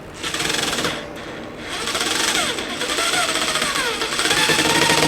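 Electric drill driving a deck screw into steel plating: a short run, a brief pause, then a longer run about two seconds in with the motor pitch rising and falling as the trigger is worked.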